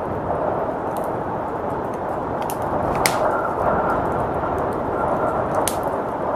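Wood fire crackling with a few sharp pops, the loudest about three seconds in, over a steady rush of blizzard wind.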